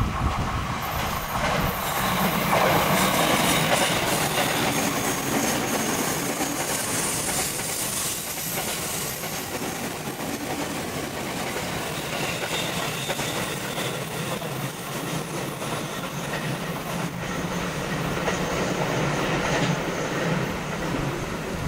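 An electric train on the Tokaido Main Line running past. It makes a continuous rail noise for the whole stretch, loudest a few seconds in.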